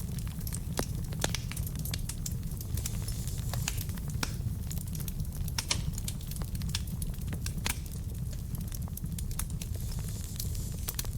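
Wood fire burning in a fireplace: a steady low rumble of flame with many irregular sharp crackles and pops from the burning logs.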